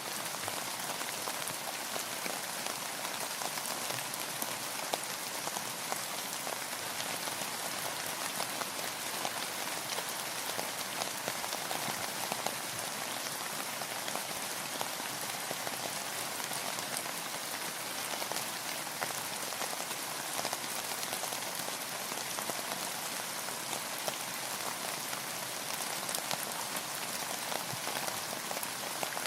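Steady rain falling, a continuous even hiss of many drops pattering on a surface.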